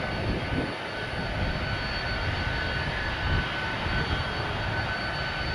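Jet airliner engines running, a steady rumble with a faint high whine over it.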